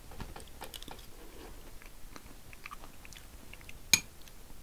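A person chewing a mouthful of buckwheat with meat, with small wet mouth clicks throughout. About four seconds in, a single sharp clink of a metal spoon against a bowl.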